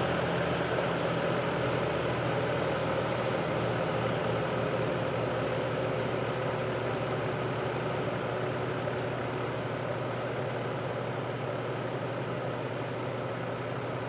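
General Electric F15W13 box fan running on medium speed just after being switched down from high, its big shaded-pole unibearing motor humming steadily under the rush of air. It grows gradually a little quieter as the blade slows to the lower speed.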